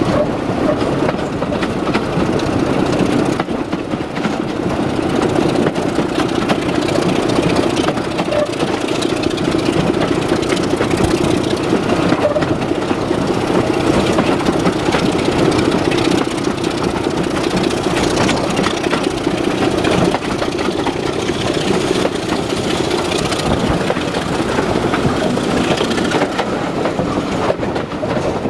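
Diesel locomotive engine running steadily as a train moves along the rails.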